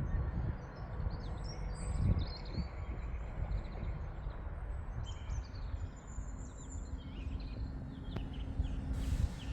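Small birds chirping repeatedly over a low, steady rumble, with a single click a little past the middle and a brief hiss near the end.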